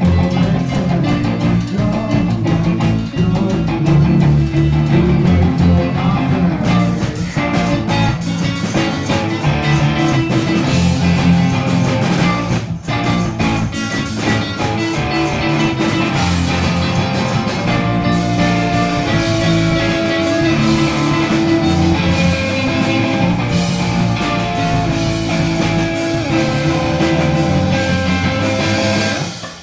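Live rock band playing: electric guitars, bass and drum kit, with the drums filling in more heavily about seven seconds in.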